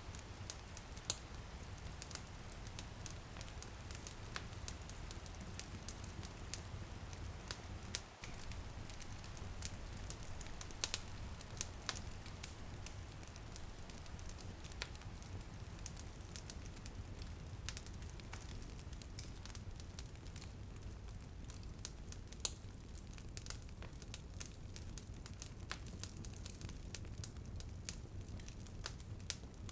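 Wood fire crackling steadily, with many scattered sharp pops over a low rumble of flames, and light rain pattering on a window behind it.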